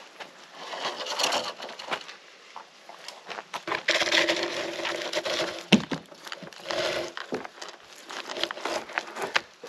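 Dry wood and brush crackling and snapping in irregular bursts, with sharp cracks and a short creak about halfway through.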